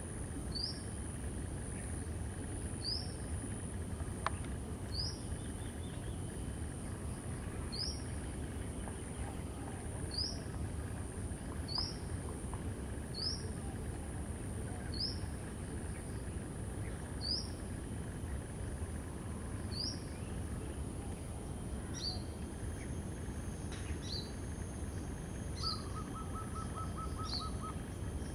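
Outdoor ambience on a golf course: a bird gives a short, high, rising chirp about every two seconds over a steady high-pitched insect drone and low rumble, with one sharp click about four seconds in.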